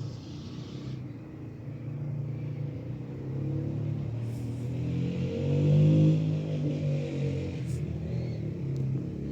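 A vehicle's engine running with a low rumble, revving up and getting louder a little past halfway, then easing back down.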